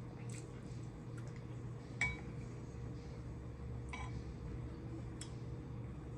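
A few light clinks against a dish while eating, four short strikes. The loudest comes about two seconds in, and a second one two seconds later also rings briefly. A steady low hum runs underneath.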